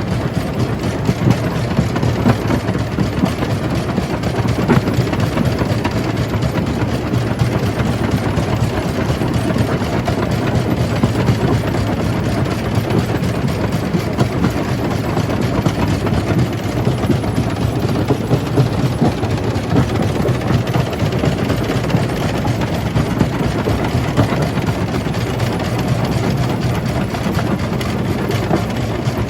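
Jaw crusher running and crushing rock: a steady, dense rattling grind over a low mechanical drone.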